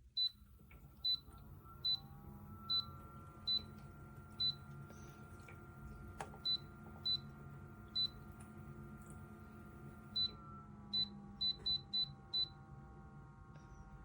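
Lacidoll 25 L cool-mist humidifier's control panel beeping as its buttons are pressed, a string of short high beeps that come closer together near the end. Under them its fan motor hums, rising in pitch as it starts up and changing pitch about ten seconds in, as when the speed setting is changed.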